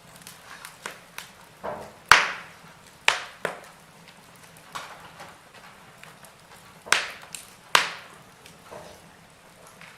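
Wood logs burning in a fireplace: irregular crackles and sharp pops over a faint steady hiss, with the loudest pops about two seconds in and twice near seven to eight seconds.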